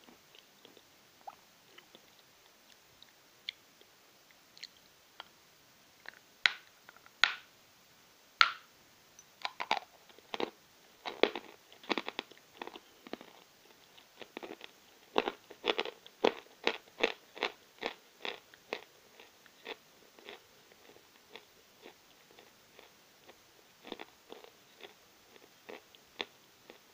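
A person biting and chewing lumps of Novy Oskol natural chalk close to the microphone, making dry crunches. A few sharp crunches at first, then rapid crunching for about twelve seconds, easing to scattered crunches near the end.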